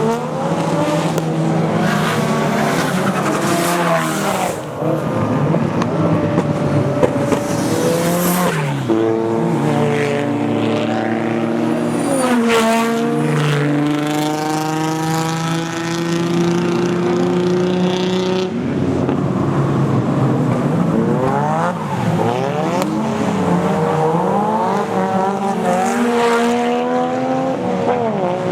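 Drift cars' engines revving hard, their pitch repeatedly rising and falling as throttle is worked through the slides, with more than one engine heard at once.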